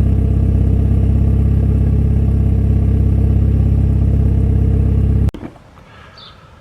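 Freshly rebuilt turbocharged 2.0-litre Theta inline-four of a Hyundai Genesis Coupe idling steadily on its first start-up. The sound cuts off suddenly about five seconds in.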